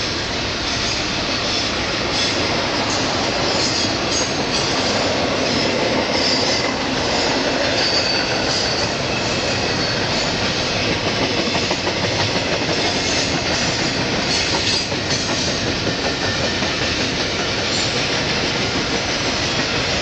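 Double-stack intermodal container train rolling past: the steady noise of steel wheels on rail from the passing well cars, with faint high-pitched wheel squeal now and then in the first half.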